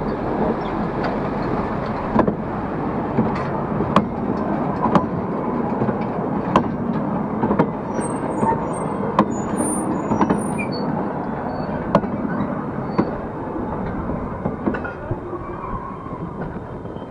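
Small tourist train's carriages rolling slowly past on a narrow-gauge track: a steady rumble of wheels on rail, with a sharp clack about once a second as the wheels cross the rail joints, and a few brief high squeaks around the middle. The rumble fades near the end as the train moves away.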